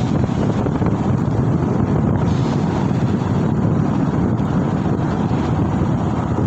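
Steady wind rushing over the microphone while riding, with vehicle and road noise beneath it.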